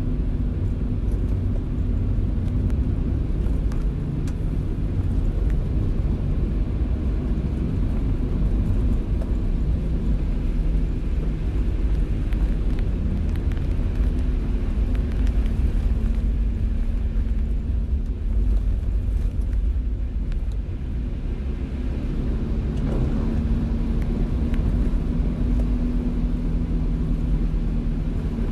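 Car driving in the rain: a steady low rumble of engine and tyres on the road, with faint scattered ticks of rain over it.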